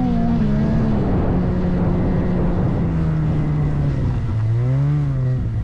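Ski-Doo turbo snowmobile engine running under way, its pitch wavering up and down, with a brief rise and fall in revs about four and a half seconds in.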